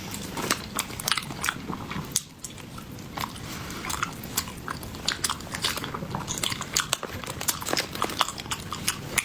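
Close-up mouth sounds of someone chewing soft, sticky snow-skin mochi: wet smacks and many small irregular clicks.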